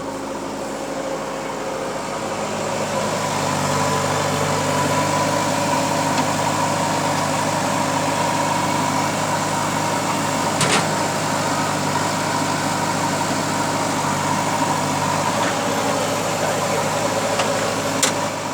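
Heavy diesel engine running steadily. It gets louder a few seconds in and holds there, with a steady high whine over it and one sharp click about halfway through.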